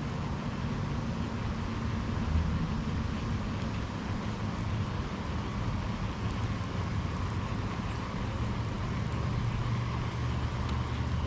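Light rain falling on lake water and a small boat: a steady hiss with faint tiny drop ticks, over a low steady rumble.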